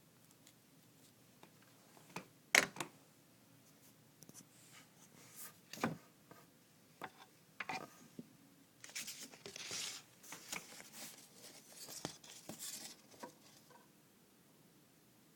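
African grey parrot rummaging in a desk drawer: scattered sharp knocks and clicks, with a stretch of scratchy rustling in the second half.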